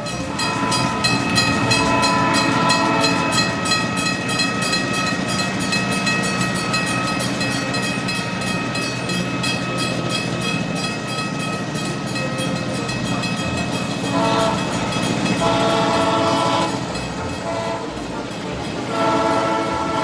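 Train sound: a held horn chord over fast, even clacking, then a few shorter horn blasts near the end.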